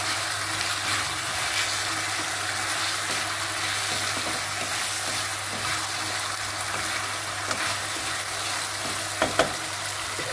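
Potato slices frying with spices in an aluminium kadai, sizzling steadily while a wooden spatula stirs and scrapes them against the pan. There are two sharp knocks about nine seconds in.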